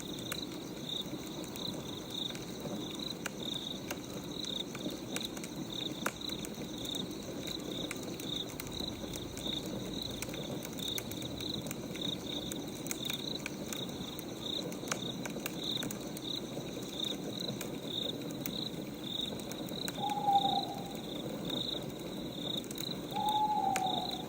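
Night-time ambience of crickets chirping steadily, about twice a second, over the faint crackle of a burning wood fire. Near the end a bird hoots twice, each a short falling call.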